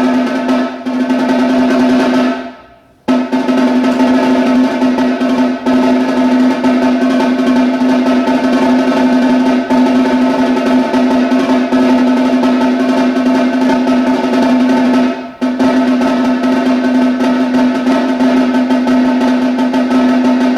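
Snare drum played in a long, sustained roll with a steady ring. It breaks off to silence for a moment about three seconds in, then comes back, with another brief break about three-quarters of the way through.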